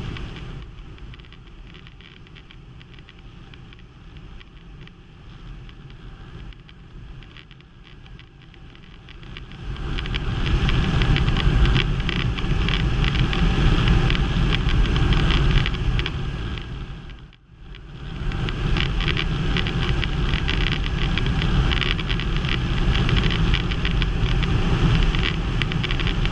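Quik GT450 trike's Rotax 912 engine running in flight with wind rushing over the microphone. The first ten seconds are quieter, then the sound grows louder and stays so, with a brief cut-out about two-thirds through.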